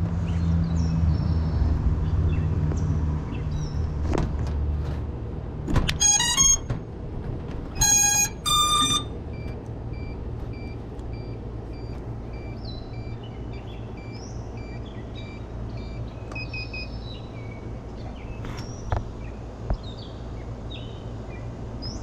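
The brushless motors of a Lumenier QAV-S 5-inch FPV quad play the ESC startup tones, a quick rising run of beeps, as the battery is connected about six seconds in. Two more short beeps follow about two seconds later. Before that a low rumble fades out, and birds chirp faintly.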